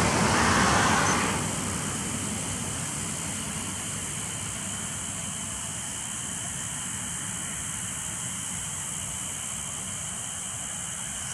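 A car going by on the street, dying away about a second in, then a steady hiss of outdoor traffic noise.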